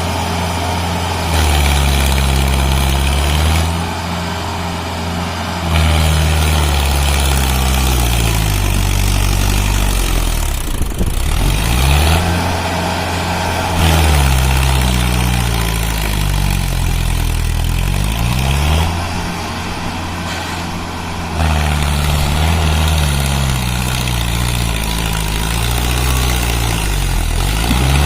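Mahindra Arjun 605 tractor's diesel engine revving up and down again and again, its pitch rising and falling every few seconds, as it strains under a heavy trolley load.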